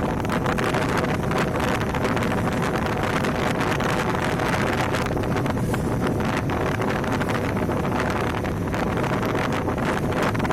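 Motorcycle engine running steadily on the move, with heavy wind noise buffeting the microphone.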